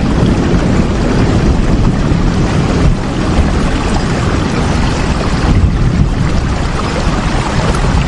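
Steady heavy rain, a dense, even rushing hiss with a strong low rumble under it.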